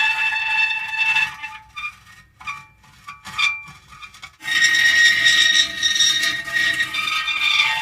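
Metal creaking: a drawn-out, high-pitched squeal that breaks off about a second in into a few seconds of short, stuttering creaks, then resumes as a long steady squeal near the middle.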